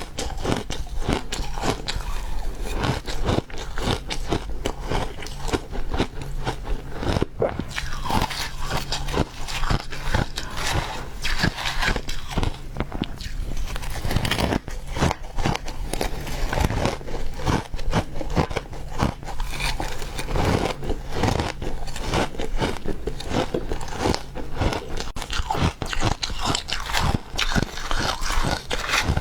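A person biting and chewing refrozen ice: a dense, unbroken run of crunches and crackles.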